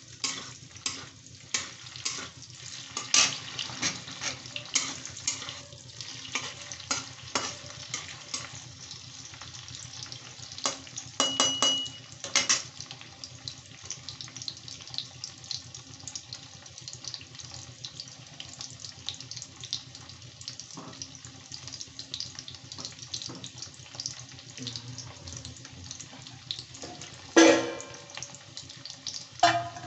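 Paneer cubes sizzling and crackling in hot mustard oil in a kadai, a steady spatter of small pops, with a few louder knocks about 3 s, 11 to 12 s and 27 s in.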